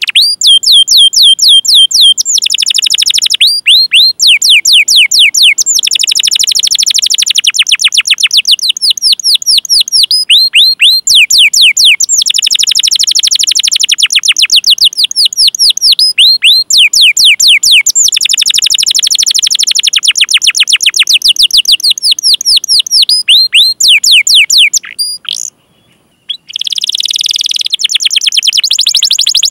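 Domestic canary singing in long rolling phrases: fast trains of high chirps that each sweep sharply downward, repeated many times a second, with one brief break near the end.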